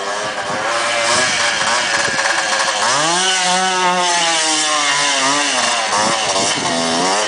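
Quad (ATV) engine revving up and down, its pitch climbing sharply about three seconds in and wavering after, with a steady hiss over it.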